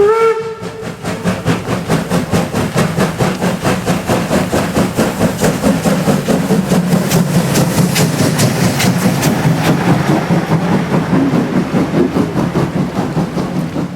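Steam locomotive working past, its exhaust chuffing in quick, even beats; a drawn-out whistle ends about half a second in.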